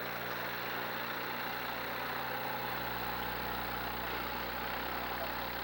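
Steady din of demolition derby cars' engines running, with no single event standing out.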